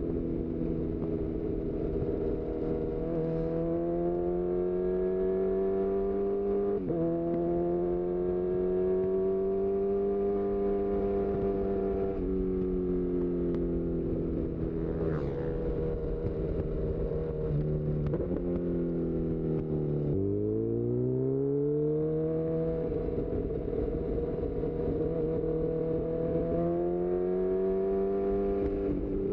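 2018 Honda CB1000R's inline-four running through a full-system Black Widow exhaust under hard acceleration. The engine note climbs and drops abruptly at two quickshifter upshifts in the first seven seconds, then falls as the throttle eases off. Around two-thirds of the way through it dips sharply and climbs again.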